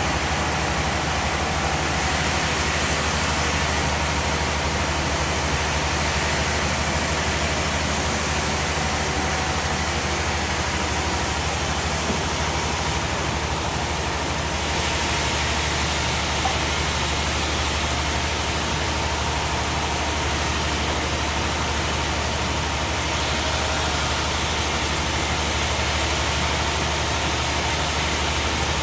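Sawmill machinery running steadily: a constant low engine hum under an even hiss, with no pauses.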